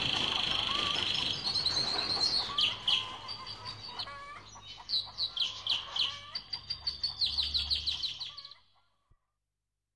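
Birdsong: a high, steady trill for about the first second and a half, then quick runs of repeated high chirps. It fades out about a second before the end.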